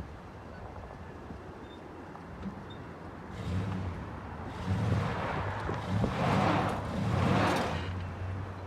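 Truck engine revving in about four surges under load, with a rushing noise of wheels and strap pulling, during an attempt to jerk a stuck pickup free with a tow strap. A sharp click right at the start.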